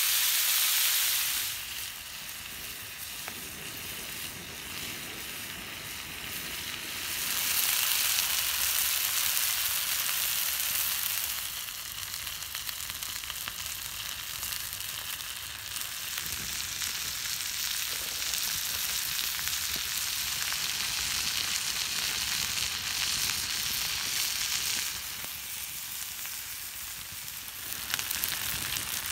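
Chicken drumsticks frying in a pan with a steady sizzle. The sizzle swells louder and drops back several times, and a few light clicks come near the end.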